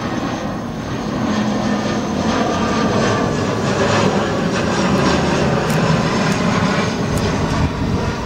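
Arriving airliner's engines passing close on landing approach: a loud, steady engine noise that swells about a second in and holds.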